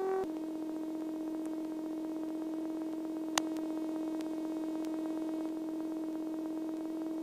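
Steady hum in the Cessna 172N's cockpit audio: one tone with faint overtones that steps slightly lower in pitch about a quarter second in, with a few faint clicks, one sharper about three seconds in.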